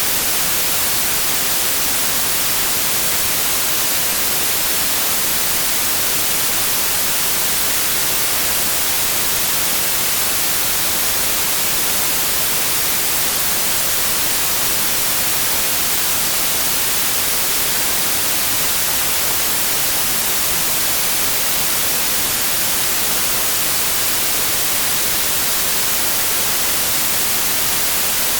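Synthetic white noise: a steady, even hiss with no changes or events, bright in the highs.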